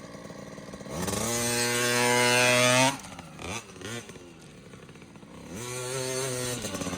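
Small dirt bike engine revving: the pitch climbs about a second in, holds for a couple of seconds and falls away near the three-second mark, then revs up and holds again near the end as the bike takes off and rides.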